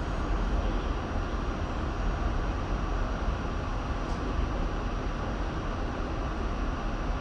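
R68 subway train running steadily along the track: a continuous low rumble with a faint steady high tone above it.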